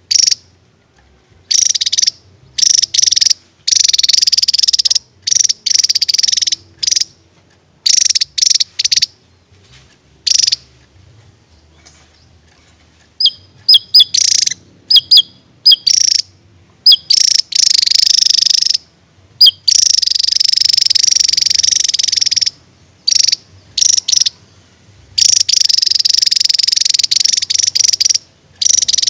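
Javan tesia singing its rapid high-pitched song in bursts a fraction of a second to a few seconds long, separated by short pauses, with a run of short sharp sliding notes about halfway through.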